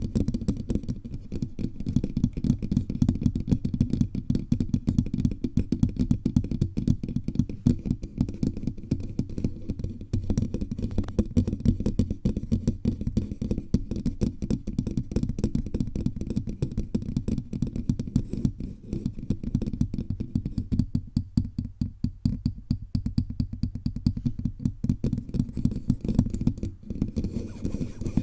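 Fingertips tapping rapidly all over a bare microphone, a fast continuous patter of dull, bassy taps picked up right on the mic body.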